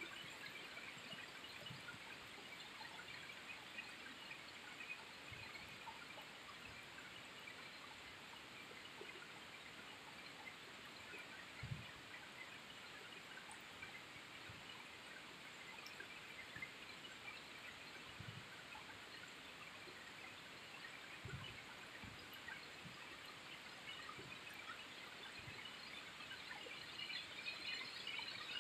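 Steady rain falling on trees and foliage: a faint, even hiss of many drops, with a few soft low thuds of heavier drips landing close by.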